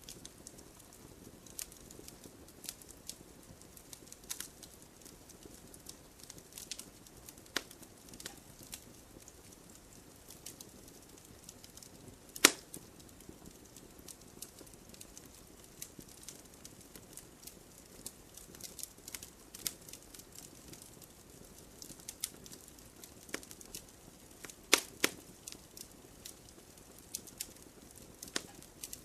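Wood campfire crackling, with scattered small snaps and a few sharp louder pops, the loudest about twelve seconds in and another near twenty-five seconds, over a faint low hiss.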